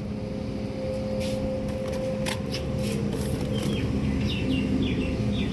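A steady low mechanical hum with a couple of held tones, and a few short high chirps in the second half.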